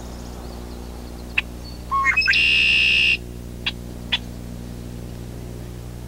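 Songbird calls: a few short, sharp chips, and about two seconds in a quick run of rising notes that ends in a loud buzzy trill lasting about a second. A steady low hum runs underneath.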